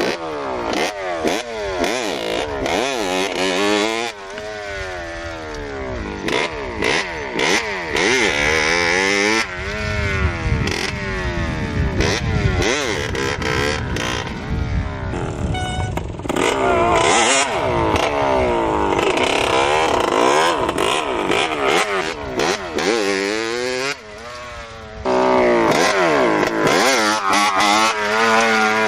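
A motorcycle engine revving up and down repeatedly as it is ridden. Its pitch climbs and falls every second or two through gear changes and throttle, and it goes briefly quieter about five seconds before the end.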